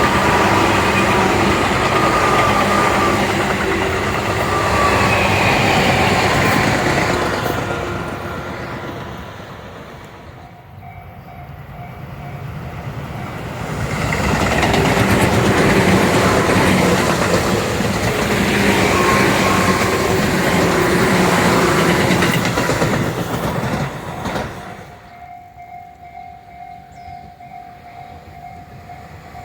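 Tobu Tojo Line electric commuter trains passing at speed, two in turn: loud rushes of wheel and rail noise with a gliding motor whine, fading in between. In the last few seconds only a quieter steady hum remains.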